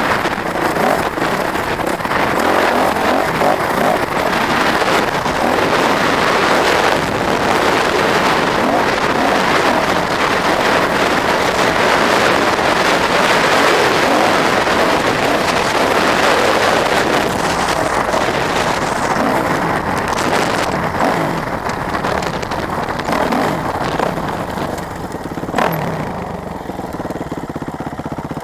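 Off-road vehicle engine running under way while being ridden, with loud, steady engine and road noise. It eases off over the last few seconds as the ride slows, with one sharp click shortly before the end.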